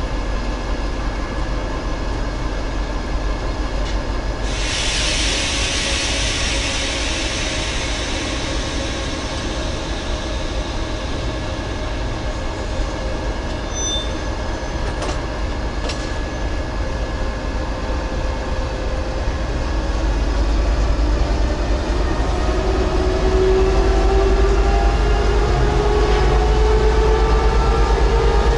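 Diesel locomotive and train at a station. A sharp burst of air hiss starts about four seconds in and fades over several seconds. In the last third the engine note rises and grows louder as the locomotive builds power.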